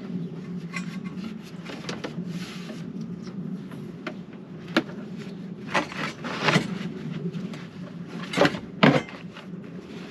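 Scattered knocks and clunks of parts being handled, the loudest two close together near the end, over a steady low hum.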